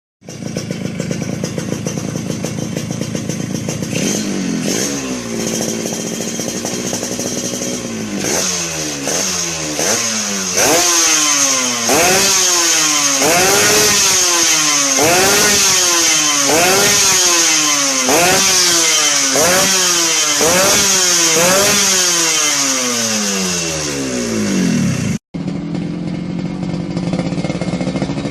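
Yamaha RX-King two-stroke single-cylinder motorcycle engine running through an aftermarket exhaust: idling, one rev about four seconds in, then blipped over and over about once a second. Near the end, after a short break, a steady idle with a different exhaust tone.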